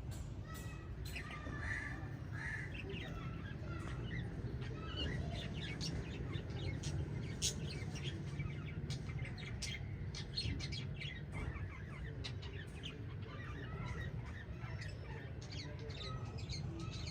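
Birds chirping: many short, quick calls, over a steady low hum.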